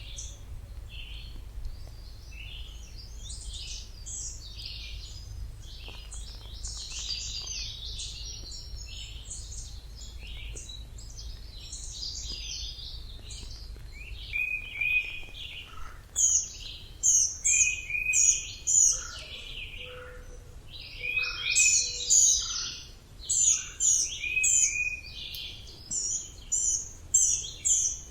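Several songbirds chirping and singing together. From about halfway on, one bird close by repeats a loud song phrase about once a second, over a steady low background rumble.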